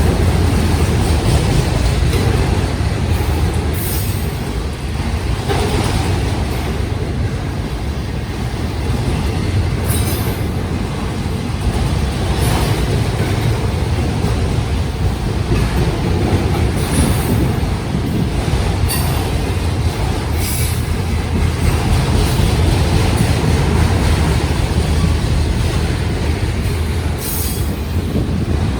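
Union Pacific autorack freight cars rolling past: a steady rumble of steel wheels on rail, with scattered sharp clicks.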